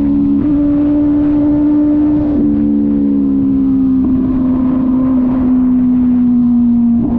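Kove 450RR motorcycle engine running at a steady cruise, with a low rush of wind and road noise underneath. Its pitch steps up slightly about half a second in, drops a little about two and a half seconds in, then sags slowly as the revs ease off.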